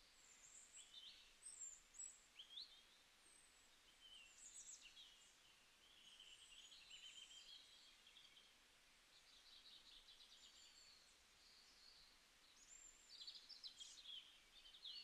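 Near silence with faint, high-pitched bird chirps and short trills scattered throughout.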